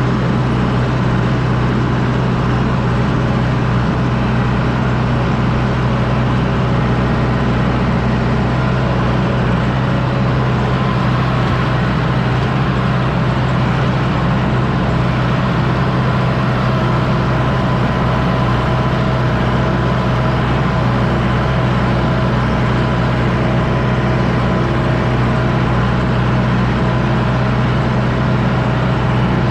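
John Deere 6110D tractor's diesel engine running steadily under load, pulling a disc harrow.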